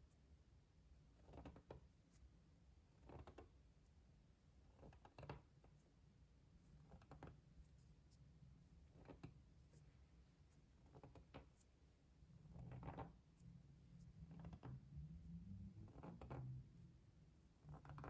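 Faint, soft ASMR trigger strokes close to the microphone, one about every two seconds.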